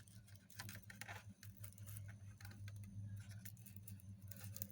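Faint scattered small clicks and scratches of fingers handling a dried cicada specimen while working its wing up into place, over a low steady hum.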